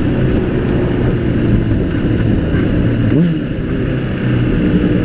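Motorcycle engine running as the bike rides through traffic, heard from the rider's own microphone with road noise. About three seconds in the engine pitch rises briefly, then the sound eases off for a second.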